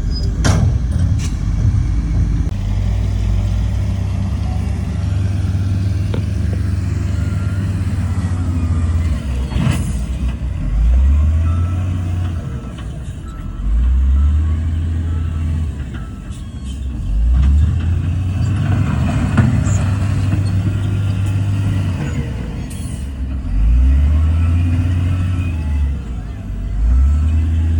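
Heavy diesel engine of earthmoving machinery working under load, its pitch rising and dropping in repeated surges every few seconds. There is a sharp knock about ten seconds in.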